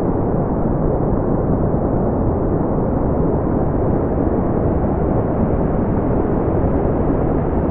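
Steady brown noise: an even, deep rushing hiss weighted toward the low end, with no change in level or character.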